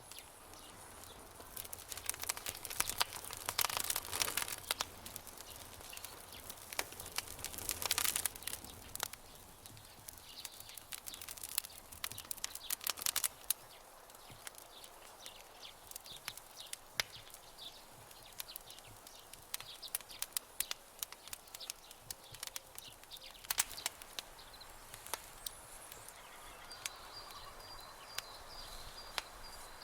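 Wood campfire crackling, with many sharp pops and snaps and short bursts of hissing a few seconds in. A faint high, repeated chirping joins near the end.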